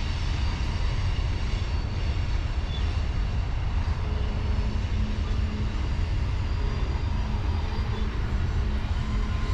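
Diesel freight locomotives running, a steady low rumble with a faint humming tone.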